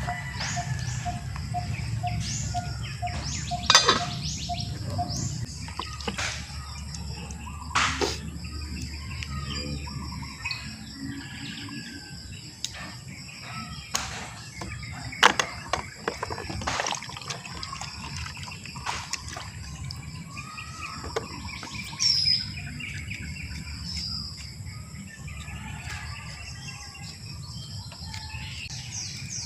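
Birds chirping and calling, many short high notes, with a few sharp clicks scattered through. A low rumble underneath fades out about a third of the way through.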